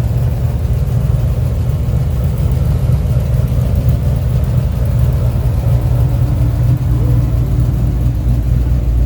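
A vehicle engine running with a steady low rumble, settling to a deeper tone about seven seconds in.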